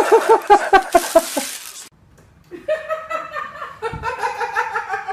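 High-pitched human laughter in quick, rhythmic bursts. It breaks off for a moment about two seconds in, then more pulsing laughter follows.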